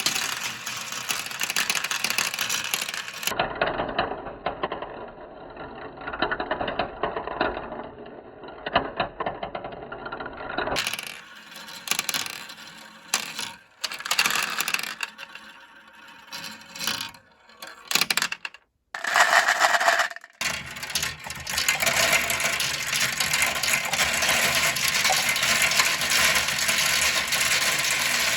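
Marbles rolling and clattering down a plastic Kumikumi marble-run slope, a dense rattle with many small clicks. It changes abruptly a few times as the run cuts from one clip to another, with a brief break about two-thirds of the way in.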